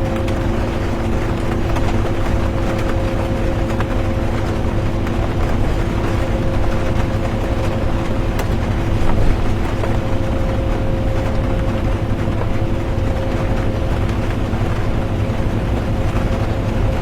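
Inside a bus while it drives: a steady low engine and road rumble with a constant hum, and rain on the bus as an even hiss with faint ticks. There is a small click about eight seconds in.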